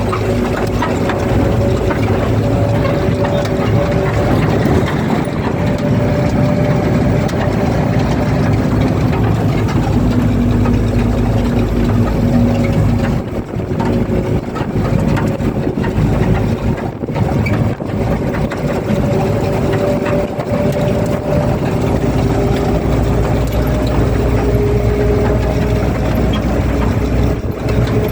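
Truck engine running steadily, its pitch drifting slowly up and down, with a few brief dips in level.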